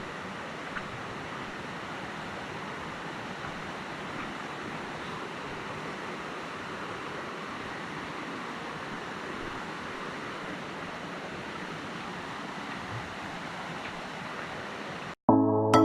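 Steady rain falling on rainforest foliage, an even hiss with a few faint drips. Music cuts in abruptly just before the end.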